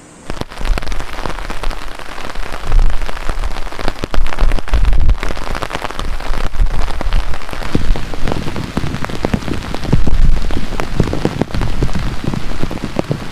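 Heavy rain pelting down on a surface, with a dense patter of many individual drops striking close by. It comes in suddenly just after the start.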